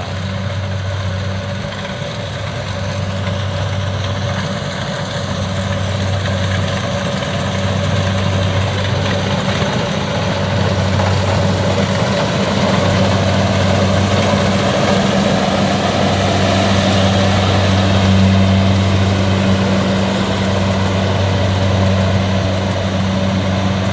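Heavy diesel engine of rice-harvesting machinery running steadily with a low hum and a mechanical clatter, growing gradually louder.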